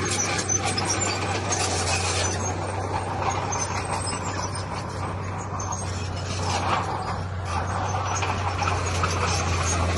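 Heavy diesel earthmoving machinery working steadily: a constant low engine drone with a rough, crackling noise of stone and earth being shifted over it.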